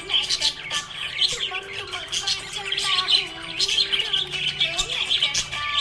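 Budgerigar chirping in a rapid, continuous stream of short high calls.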